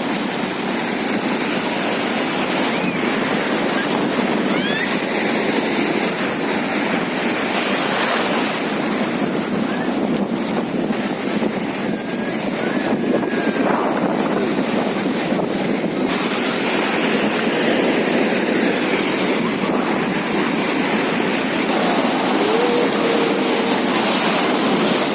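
Ocean surf breaking steadily on the shore, with gusty wind buffeting the microphone.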